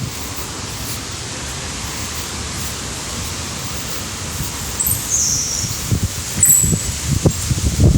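Strong wind blowing steadily, then gusting, with low rumbling buffets on the microphone from about five seconds in.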